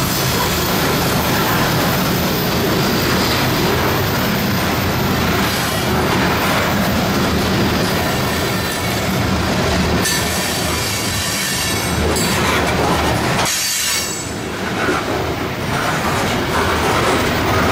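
Loaded coal hopper cars of a long freight train rolling past: a steady loud rumble of steel wheels on rail, with high wheel squeal and clacking over rail joints, easing briefly about 14 seconds in.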